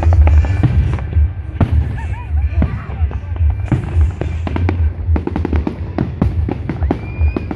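Fireworks display: repeated bangs of shells bursting, coming thicker into a rapid crackle in the second half. Loud music with a heavy bass plays underneath.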